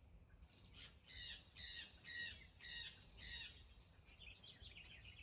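A bird calling a run of five notes, about two a second, each sliding down in pitch, with a few fainter chirps after it.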